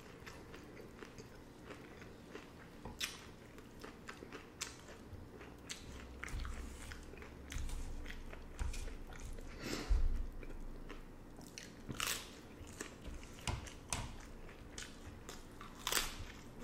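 A person chewing and biting crunchy hard-shell beef tacos: irregular crisp crunches of fried taco shell and wet chewing, with a few louder crunches scattered through.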